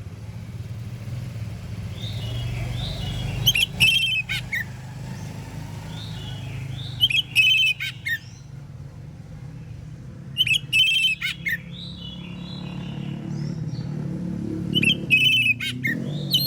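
Oriental magpie-robin singing loud, whistled song phrases, four times about every three and a half seconds, with quieter chirps between them. A low steady hum runs underneath.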